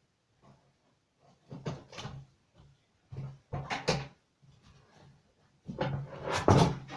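Handling noises: clusters of knocks and rattles of objects being moved and set down, in three bursts, the loudest near the end.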